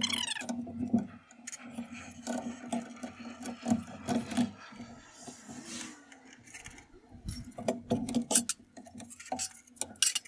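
Hand tools working on the power steering's metal fittings and banjo bolts: irregular clicks, knocks and scraping, with a short hissing, rushing stretch about halfway through.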